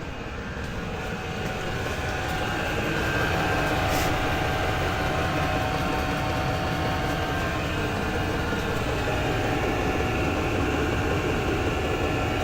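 The mini skidsteer's 27 hp Loncin V-twin engine running steadily, getting louder about two seconds in and holding there.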